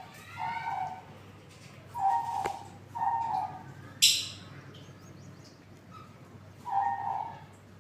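Parrots calling: a series of short, repeated calls, with one loud, harsh screech about four seconds in.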